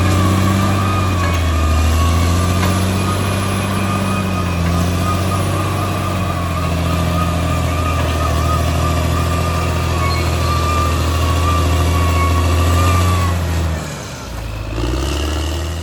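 Caterpillar D6R XL bulldozer's diesel engine running steadily with a high whine over the deep drone; it eases off briefly near the end, then picks up again.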